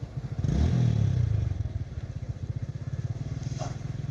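Motor vehicle engine idling with a fast, even low pulse, revved up briefly about half a second in, then settling back.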